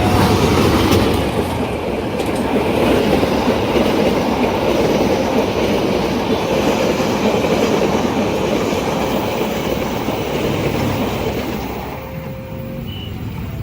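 A train passing close by, its carriages' wheels running over the rails with a steady clickety-clack, easing off about twelve seconds in as the train goes by.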